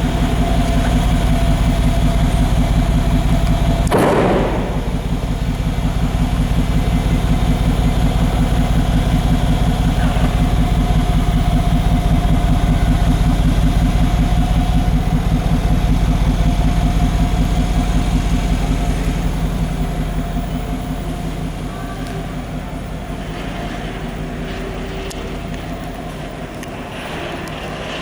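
Mercedes-AMG G63's twin-turbo V8 idling with a steady low, evenly pulsing exhaust burble. A brief noisy rush cuts across it about four seconds in, and the sound grows somewhat quieter over the last third.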